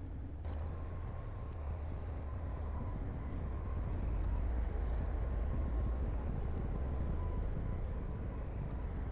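Heavy diesel construction machinery running steadily with a deep low rumble, growing a little louder about halfway through.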